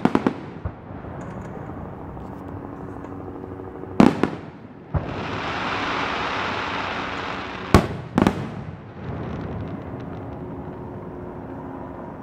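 Fireworks display: aerial shells bursting with sharp bangs, one right at the start, one about four seconds in and two close together near eight seconds, with a steady hiss between about five and seven and a half seconds.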